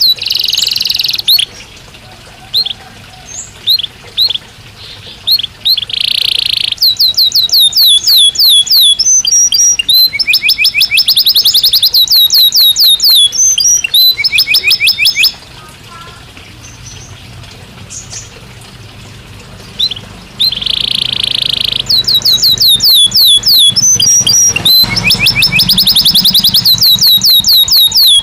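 Belgian canary singing in long runs of fast, high repeated notes and trills, broken by pauses of a few seconds, the longest around the middle.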